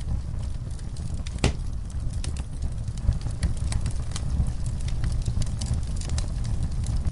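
Fire in a fireplace crackling: scattered sharp pops over a steady low rumble, with one louder pop about a second and a half in.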